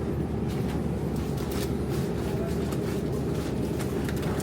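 Steady low hum of supermarket background noise, with a few faint clicks and rustles over it.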